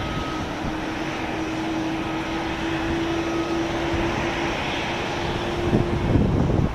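Boeing 737-900ER's CFM56-7B jet engines running with a steady roar and a held tone. Gusts of wind hit the microphone from about six seconds in.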